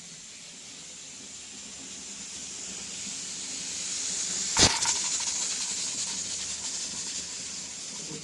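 A high hiss swells over a few seconds and then slowly fades, with one sharp click at its loudest point about four and a half seconds in.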